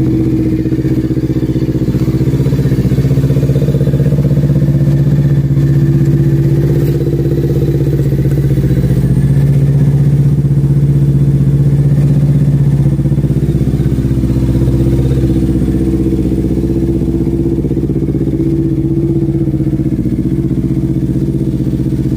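Kawasaki Ninja 300 parallel-twin engine idling steadily after a cold start while it warms up, its note swelling slightly in the middle.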